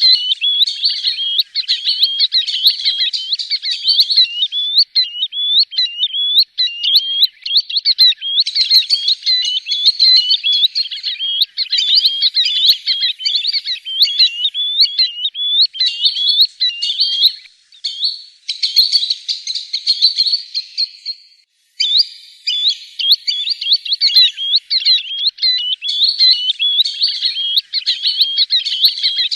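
Green sandpiper calls: a rapid, continuous run of high chirping notes that breaks off briefly about two-thirds of the way through, then resumes.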